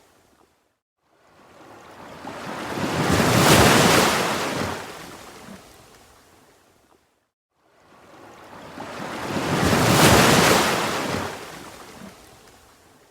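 Ocean waves surging and washing on the shore, two waves in turn: each builds over a couple of seconds to a full hiss and then fades away, with a brief lull between them, about six and a half seconds apart.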